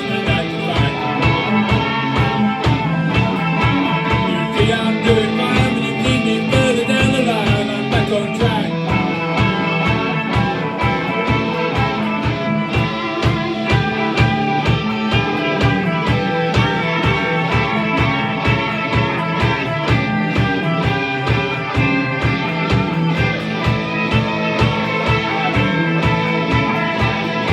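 Instrumental break in a rock song: electric guitars playing over a steady drum beat.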